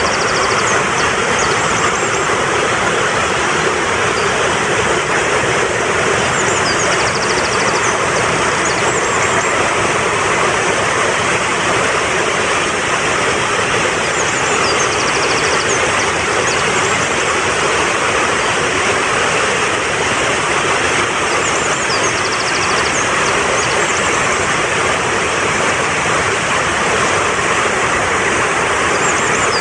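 Fast-flowing mountain stream rushing steadily, with a short, high bird call or trill that comes back about every seven to eight seconds.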